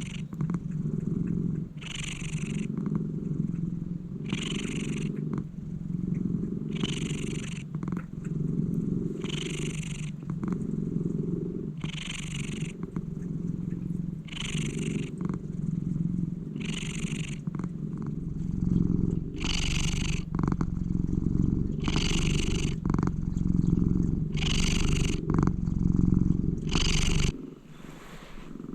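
A domestic cat purring loudly and steadily, with a breath hiss about every two and a half seconds. The purring grows louder in the second half and drops off shortly before the end.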